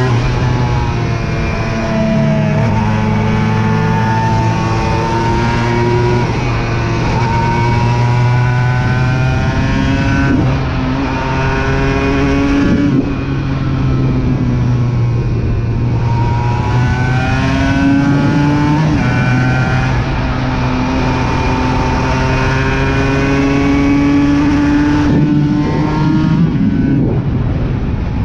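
Aprilia RS 125 two-stroke single-cylinder engine under way. Its pitch climbs and drops back several times, as when shifting up through the gears.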